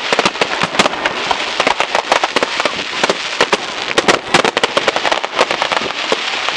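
New Year's fireworks going off in a dense, continuous barrage of many bangs and crackles a second, over a steady hiss.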